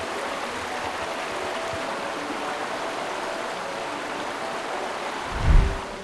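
River water running steadily over stones, with one low thump about five and a half seconds in.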